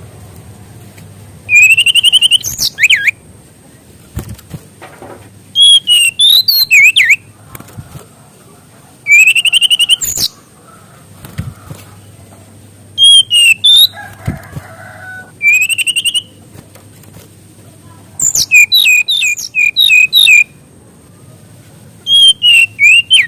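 Mangrove whistler (SRDC, kancilan bakau) singing loudly in about seven separate phrases of quick whistled notes, some sliding up or down, with short pauses between them.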